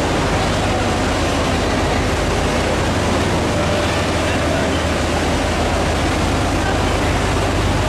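Passenger train underway: a steady, even running noise with a constant low hum beneath it.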